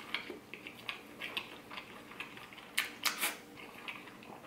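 A person chewing a mouthful of food close to the microphone: soft wet clicks and smacks, with two louder ones about three seconds in.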